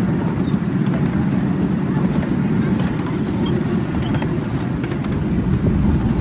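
Miniature railway train running on its track: a steady low rumble with faint scattered clicks.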